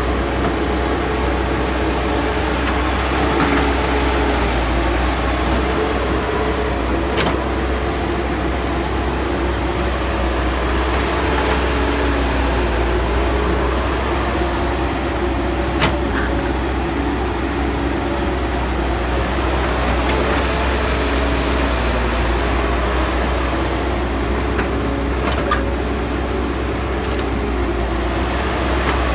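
Caterpillar hydraulic excavator's diesel engine running steadily under working load, with a wavering hum from the machine and a few sharp knocks.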